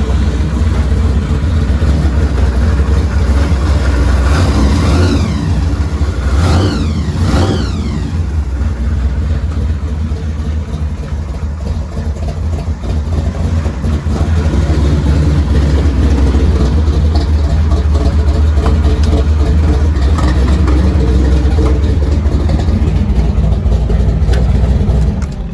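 Supercharged 468 cubic-inch big-block Chevy V8 with a 6-71 blower, dual 750 carburettors and a big cam, running loud with a deep, steady rumble. Its pitch rises and falls a few times around five to eight seconds in, and the sound stops abruptly near the end.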